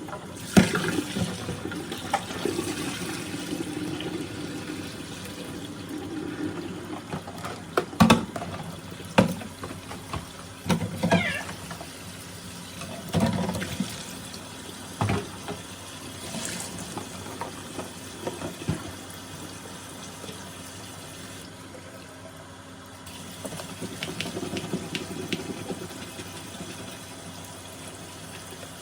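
Water running from a sink tap while baby bottles are washed, with scattered knocks and clatter of the bottles against the sink, busiest in the middle.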